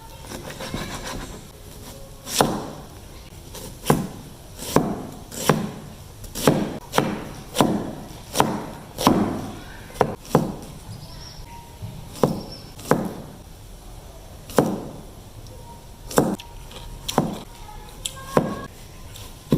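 Knife chopping chicken breast on a cutting board: separate, unevenly spaced chops, about one a second.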